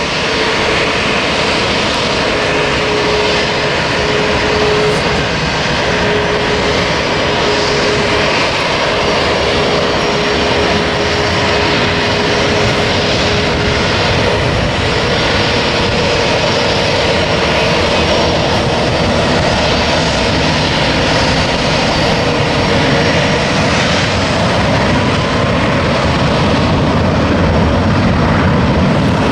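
Boeing 737 jet airliner on its takeoff run, engines at takeoff power: a steady, loud jet noise with a thin whining tone in the first half, and the low rumble building near the end.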